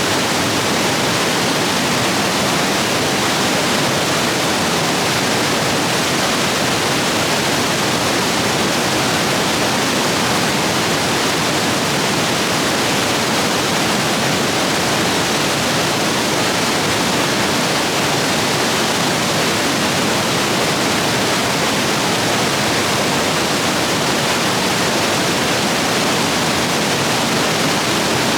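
Rapids running high after heavy rain: a loud, steady rush of white water that does not change.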